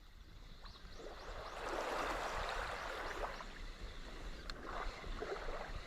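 Sea water lapping and sloshing against a small boat, swelling and easing a couple of times.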